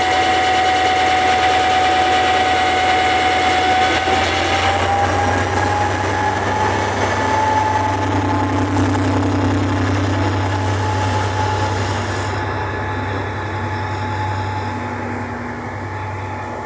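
Passenger train pulling away from a station platform: a steady motor whine steps up slightly in pitch as it gathers speed, over a low rumble that sets in about four seconds in.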